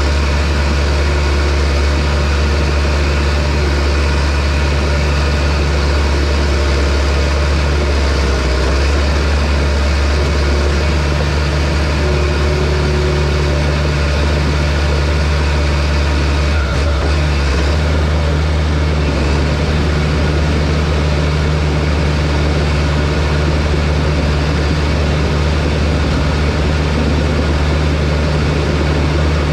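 Diesel engine of heavy logging machinery running at a steady, unchanging speed, with a deep hum and no revving.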